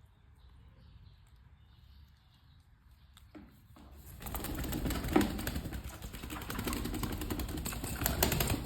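A pet bird, a parrot or myna, flapping its wings in a long burst of rapid fluttering that starts about halfway through, after a faint, near-quiet stretch.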